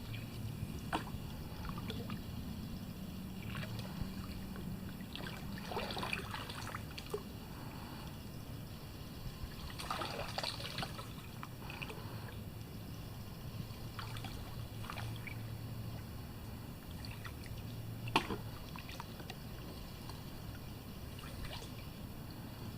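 Water trickling and dripping off a kayak paddle as it dips and lifts, with splashy strokes about six and ten seconds in. There is a single sharp knock about eighteen seconds in, over a low steady hum.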